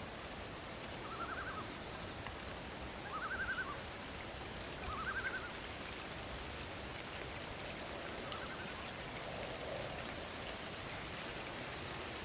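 Night-forest ambience: a steady hiss of rain and wind, with a short trilled chirp from a small animal repeating four times, every two to three seconds, the middle two loudest.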